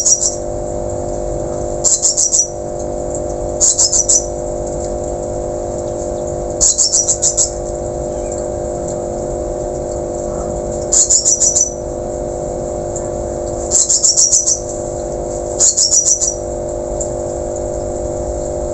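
Caged ciung batu (whistling thrush) calling over and over: short, high, rattling phrases of rapid sharp notes, about eight of them, each under a second long, over a steady low hum.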